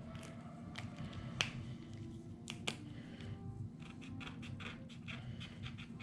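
Light clicks and taps of a marker working on small wooden embellishments: a few sharp clicks, the loudest about one and a half seconds in, then a run of quicker, lighter taps near the end.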